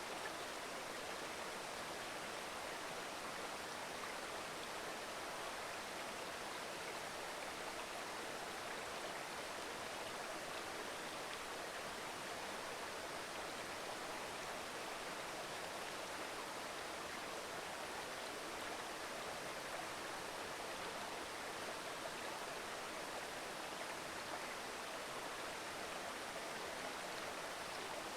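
Mountain river babbling, a steady even rush of flowing water.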